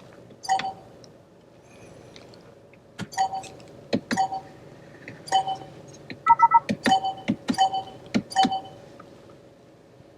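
A series of sharp clicks, like buttons being pressed, most followed by a short electronic beep, about eight beeps in all, with a brief multi-tone chime about six seconds in. These are the feedback beeps and alert chime of a car's electronic controls.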